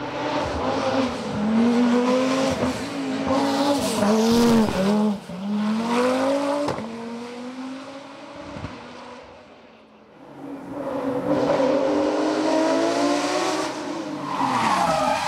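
Race car engine at full throttle on a hillclimb course, revving hard with brief dips in pitch at each upshift. It fades away about eight seconds in, and a second flat-out pass of revving and shifting begins about ten seconds in.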